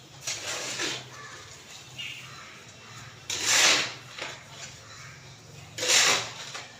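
Birds splashing while bathing in water: three short splashy bursts of about half a second each, the loudest about three and a half and six seconds in, over a faint steady low hum.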